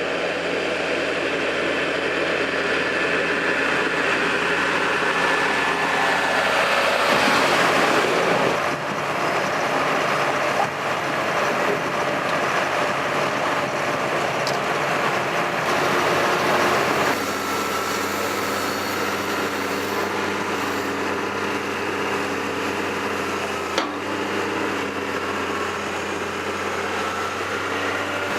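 Tractor engine running hard, its pitch and note changing a few times, with a louder, noisier surge about seven seconds in and a short sharp knock near the end.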